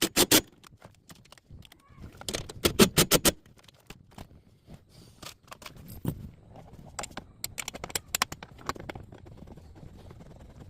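Sharp metallic clicks and knocks of hand tools on the steel dash support bar as it is bolted back in. There are a few hard knocks at the start, a quick run of about six clicks around two to three seconds in, then scattered lighter clicks.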